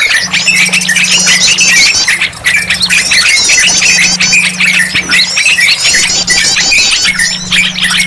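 Bird-lure recording of agitated yellow-vented bulbuls (trucukan) mixed with a flock of small birds calling in alarm: dense, continuous, high-pitched chattering and squeaky calls. The same bursts of calls recur every few seconds. A steady low hum runs underneath, cutting in and out.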